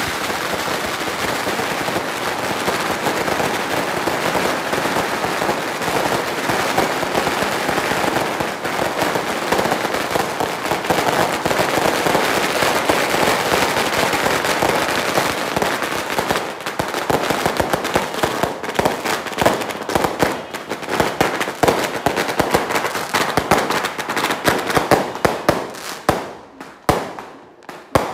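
Firecrackers and aerial fireworks going off: a dense, continuous crackling that breaks up into separate sharp bangs over the last ten seconds or so, thinning out near the end.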